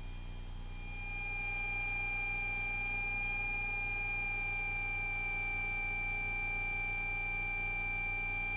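Cessna 172S Skyhawk engine idling on the ground, heard as a steady low hum, with a steady high-pitched whine fading in about a second in and holding.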